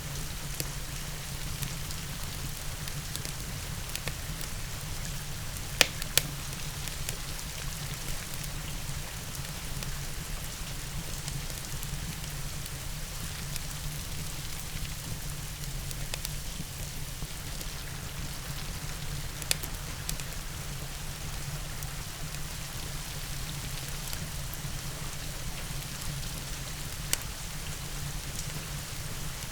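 Steady hiss of rain with the crackle of a wood fire: a few sharp pops stand out, two close together about six seconds in and single ones later on.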